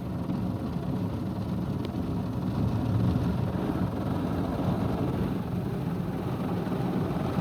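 Automatic car wash machinery running over the car, heard from inside the car: a loud, steady, deep noise that swells slightly about halfway through.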